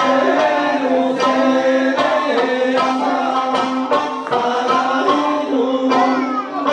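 Okinawan Eisa music: a singer's voice over plucked sanshin, punctuated by taiko drum beats.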